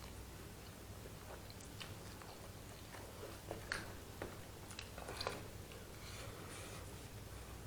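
A person eating curry instant noodles with close mouth sounds: chewing with scattered short wet clicks and smacks, bunched about halfway through.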